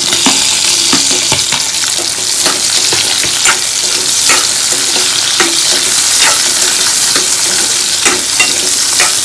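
Onion pieces frying in hot oil in a kadhai: a steady sizzle, with a steel spoon stirring and scraping against the pan about once a second.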